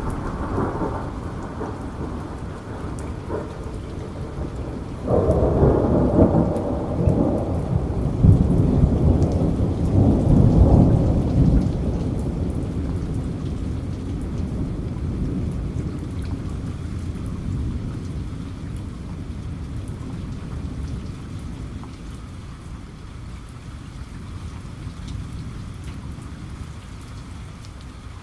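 Steady rain falling, with a roll of thunder that breaks in suddenly about five seconds in, rumbles loudest for several seconds, then slowly dies away under the rain.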